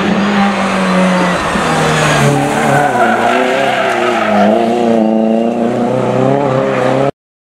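Rally car engine revving hard as the car accelerates up a tarmac stage and through a tight bend, the pitch stepping and wavering with gear changes and throttle. The sound cuts out briefly near the end.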